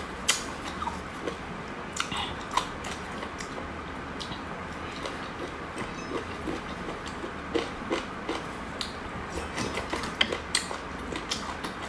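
Close-miked eating sounds of a person chewing chicken feet: irregular wet clicks and crunches, a few sharper than the rest, over a steady hiss.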